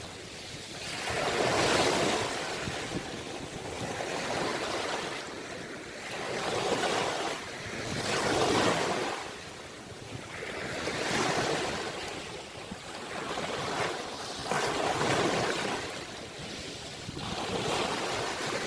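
Ocean waves breaking and washing ashore, the surf rising and falling in swells every two to three seconds.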